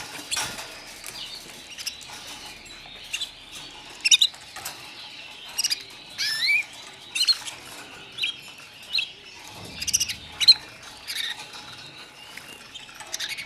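Young white canaries giving short chirps and rising cheeps at irregular intervals, with light clicks and flutters of movement between them.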